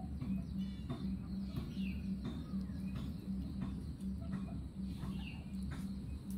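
Birds chirping now and then, a few short falling chirps, over a steady low hum.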